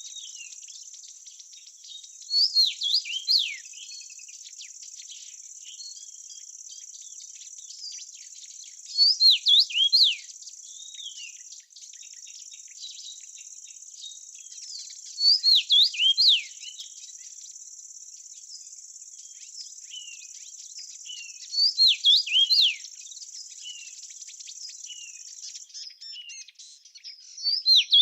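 A songbird singing short phrases of quick, downward-sweeping whistled notes, repeated about every six seconds. Under it runs a steady high-pitched insect drone, which stops near the end.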